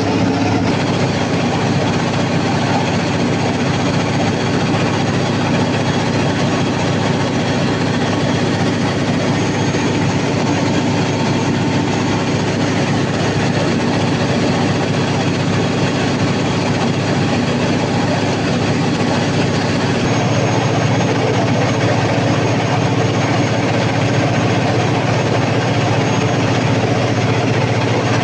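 Large diesel generator-set engine, a Cummins KTA50 V16, running steadily and loud, with a slight change in its tone about twenty seconds in.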